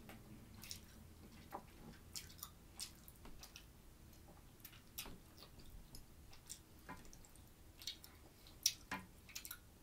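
Faint chewing with irregular small wet clicks and smacks of the mouth, the sharpest click near the end.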